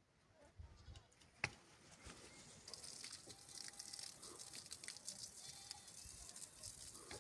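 Faint livestock bleating in quiet open country, with one sharp click about a second and a half in and a light crackling hiss from about three seconds in.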